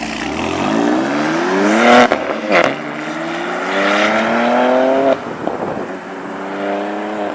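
BMW M3 G80's twin-turbo inline-six through a custom titanium exhaust, accelerating hard under full throttle. The engine note climbs steadily, drops sharply at an upshift about two seconds in, climbs again to a second shift around five seconds, then rises once more.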